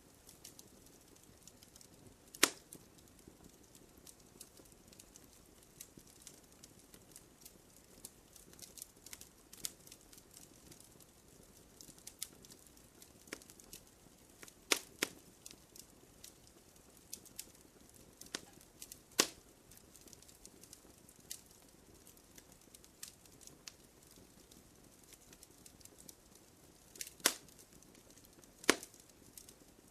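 Campfire crackling: scattered light snaps and pops over a faint steady hiss, with a handful of louder sharp pops.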